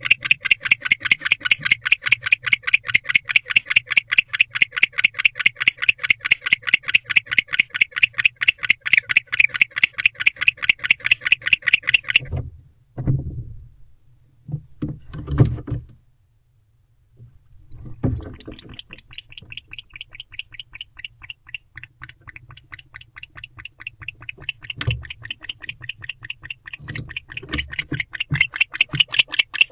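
Male barn owl in a nest box calling loudly to his mate: a fast, steady train of rasping pulses. It breaks off about twelve seconds in, a few thumps follow, then the calling starts again softly and builds back to full loudness near the end.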